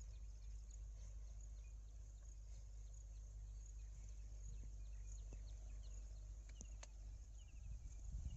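Faint field ambience: small birds chirping in short, repeated high calls over a steady low rumble, with a few dull thuds near the end.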